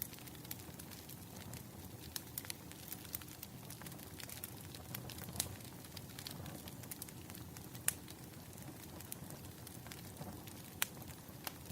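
Burning firewood crackling: irregular sharp pops and snaps, a few louder than the rest, over a steady low hiss.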